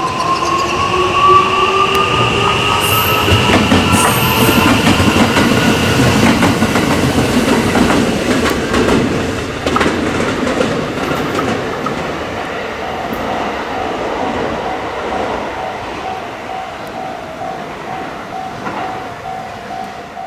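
Electric train pulling away, its traction motors whining in a tone that rises over the first few seconds and then holds, over the rumble and clatter of wheels on rail that slowly fade. A pulsing steady tone starts about two-thirds of the way through.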